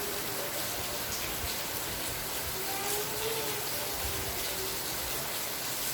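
Steady rain falling, an even hiss of drops with no break or change in level.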